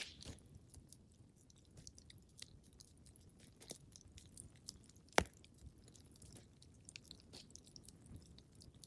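Wood fire crackling in a fireplace: scattered small crackles over a low rumble, with a sharp pop about five seconds in.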